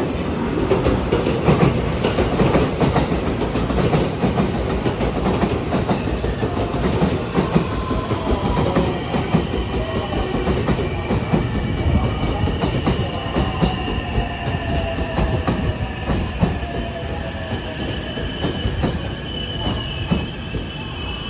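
JR West 223 series electric train running into the platform and braking: wheel-on-rail rumble with clacks at first. From about eight seconds in, a falling whine from the traction motors and a high brake squeal come in as it slows to a stop.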